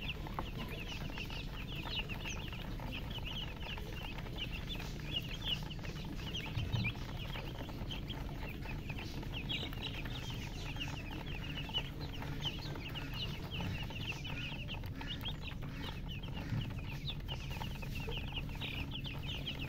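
Many baby chicks peeping without pause, a dense stream of short, high chirps overlapping one another, over a steady low hum.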